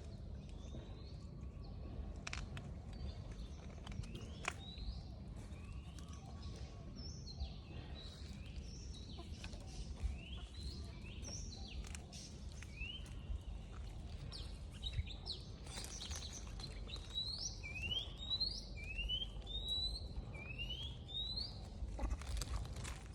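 Birds chirping: many short rising chirps, coming thicker and louder in the second half, over a low outdoor rumble.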